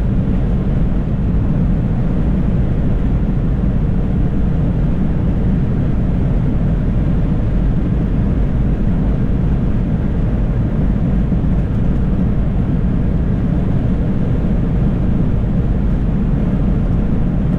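Steady road and engine rumble heard inside a moving car, even throughout with no distinct events.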